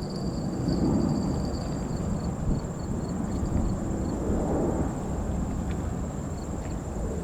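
Low, uneven rumble of distant jet aircraft across the airport, swelling twice, over a steady high insect whine and short cricket chirps at about two a second.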